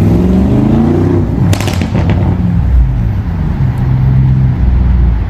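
Lamborghini Urus S twin-turbo V8 with a tuned exhaust accelerating from a start, its pitch rising for about a second and a half. A burst of sharp pops follows, and then the engine pulls on more steadily.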